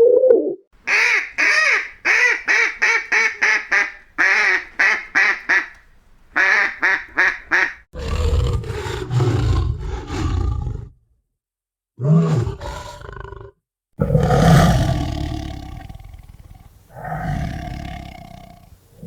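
Animal calls: a quick run of short, high-pitched calls with brief gaps between them for about seven seconds, then several deep, long calls from a large animal, each a few seconds long.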